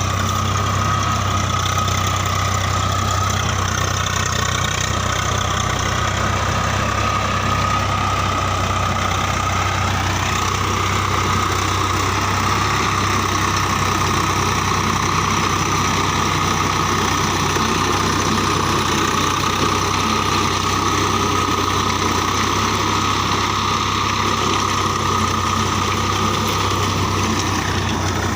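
Diesel tractor engine running steadily, with a steady high whine alongside it.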